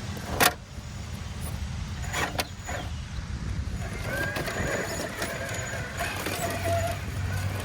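RC rock crawler running: a sharp click about half a second in and a few lighter clicks around two seconds, then the small electric motor and gears whining, wavering in pitch through the second half.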